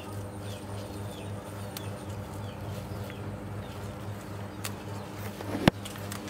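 Small birds chirping now and then over a steady low hum, with a single sharp click about five and a half seconds in.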